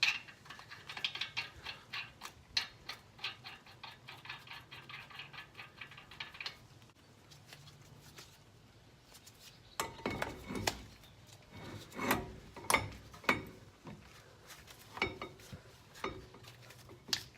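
Lug nuts being threaded by hand onto the wheel studs of a truck's front hub: a run of rapid light metallic clicks for about six seconds, then after a short pause a series of louder metal clanks and knocks.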